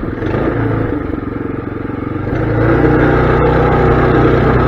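Mini bike's small engine running low at first, then opening up about halfway through and held at higher revs before easing off at the end.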